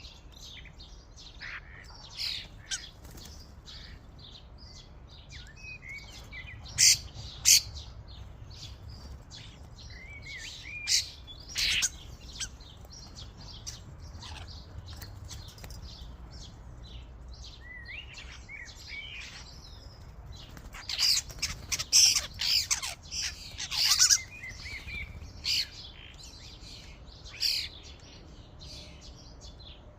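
Flock of common starlings calling at a bird feeder: a stream of chirps, whistles and harsh chattering calls, with louder clusters about seven seconds in, around twelve seconds, and from about twenty-one to twenty-five seconds.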